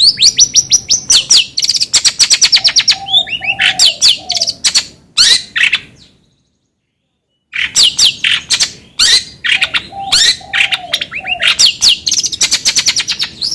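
Recorded songbird song played to get a long-tailed shrike singing: fast high trills and sharp chirps, broken by short lower notes. The sound cuts out completely for about a second and a half near the middle, then starts up again.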